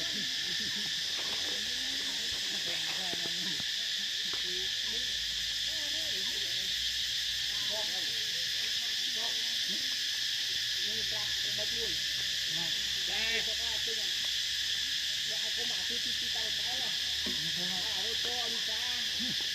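Outdoor animal chorus: a steady high insect-like drone with many short, overlapping calls underneath.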